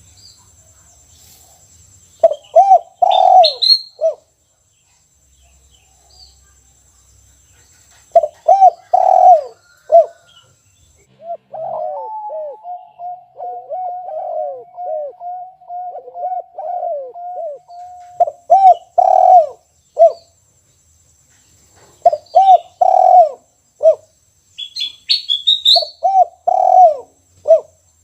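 Caged spotted dove (tekukur) cooing in its 'kuk satu' song, giving short repeated phrases of low coos five times, with a longer, wavering run of coos in the middle. Brief higher chirps come with the first and last phrases, and a faint steady high whine runs through most of it.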